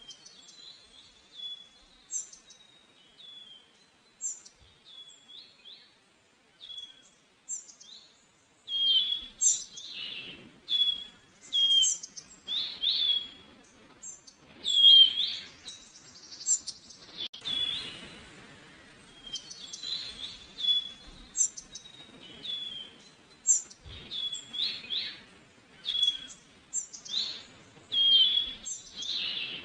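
Small songbirds chirping: many short, high calls repeated over and over, sparse at first and much busier from about nine seconds in.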